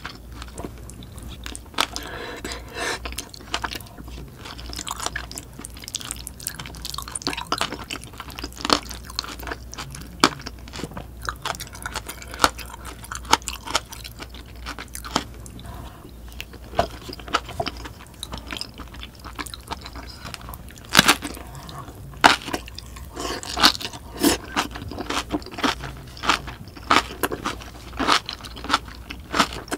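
Close-miked chewing and wet mouth smacks of someone eating spoonfuls of curry and rice, with many small irregular clicks and a few louder ones about two-thirds of the way through.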